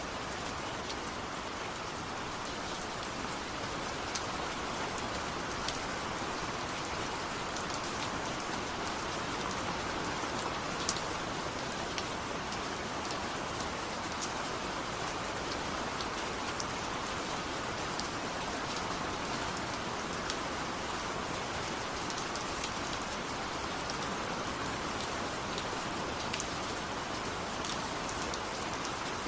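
Steady rain, an even hiss with sharp ticks of single drops landing every second or two.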